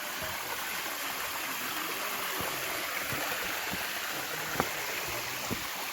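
Stream water rushing over rocks with a steady hiss, and a few short knocks, the sharpest about two-thirds of the way through.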